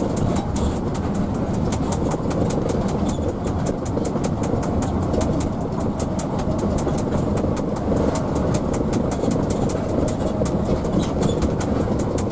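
Bus under way, heard from inside the cabin: the Hino AK's diesel engine and road noise make a steady drone, with a rapid, even ticking of about four to five clicks a second over it.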